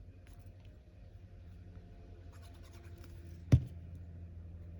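Faint rustling and scratching of paper pieces being handled on a craft table, with one sharp tap about three and a half seconds in, over a steady low hum.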